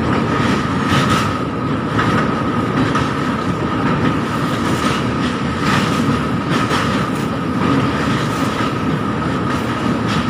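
Passenger train running at speed on a river bridge, heard from inside a coach at the window: a steady wheel-on-rail rumble with irregular clacks and a faint steady whine.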